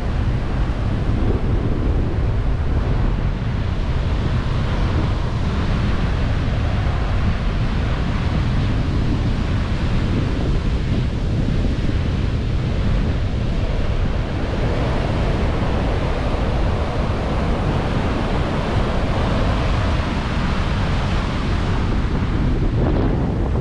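Heavy storm surf breaking on a beach, with strong wind buffeting the microphone in a steady low rumble.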